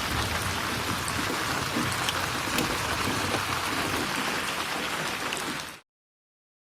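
Steady rain falling, with scattered small drop ticks. It cuts off abruptly into silence near the end.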